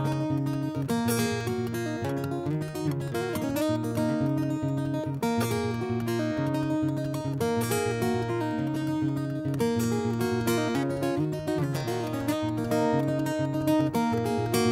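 Acoustic guitar strummed, playing a run of chords with no singing.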